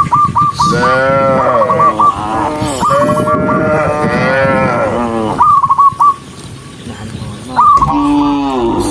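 Cattle mooing: one long, drawn-out moo that rises and falls over several seconds, then a second, shorter moo near the end.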